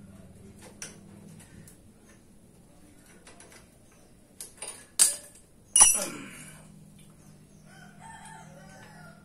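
Light clicking of metal tools, then two sharp metal strikes about a second apart, the second ringing like struck steel. A rooster crows faintly near the end.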